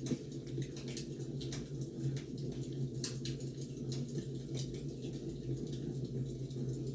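Wood fire crackling: a steady low rumble with irregular small pops and snaps scattered throughout.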